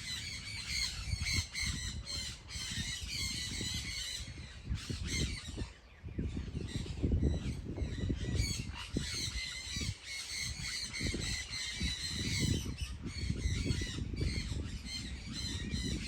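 A flock of birds squawking and chattering continuously, many calls overlapping, over an uneven low rumble.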